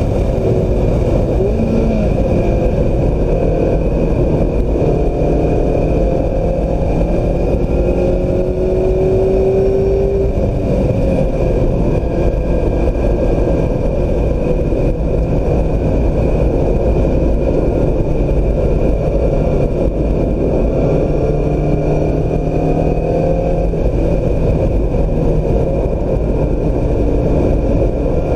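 2016 Mazda MX-5 Miata's 2.0-litre four-cylinder engine driven hard on track, its note rising and falling in pitch as it accelerates and eases off, over a steady rush of wind and road noise.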